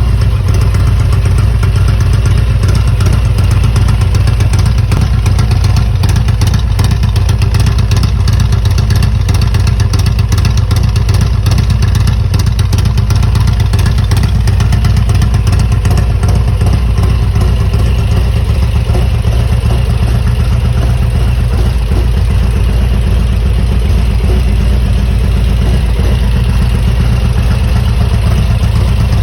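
Harley-Davidson Road Glide's 128-cubic-inch V-twin idling steadily and loudly through a Rinehart exhaust.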